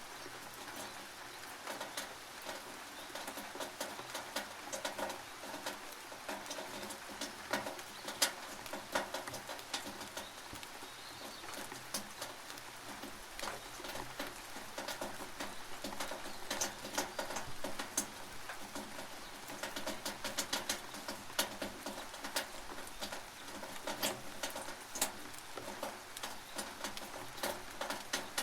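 Rain on a tin roof: a steady hiss of rain with many irregular sharp drips and taps on the metal.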